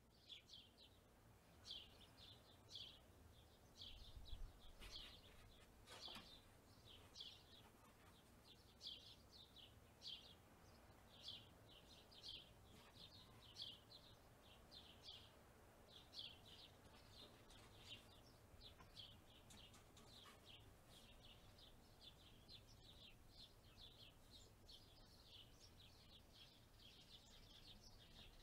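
Faint birdsong: a long run of short high chirps, one or two a second, over a low rumble of wind.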